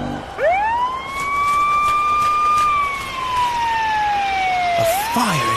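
A siren winds up about half a second in and holds a steady wail. It then slowly falls in pitch and winds up again near the end.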